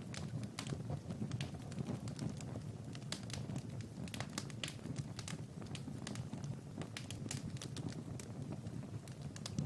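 Wood fire burning in a fireplace: a steady low rumble with many irregular sharp crackles and pops.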